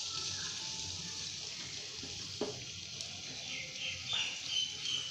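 Chopped onion sizzling steadily in hot oil in a kadai, with a couple of short knocks of the stirring spoon.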